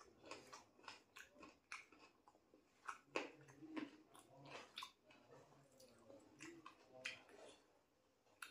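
Faint, irregular chewing and wet lip-smacking of a person eating chicken curry with rice and roti by hand, in short soft clicks.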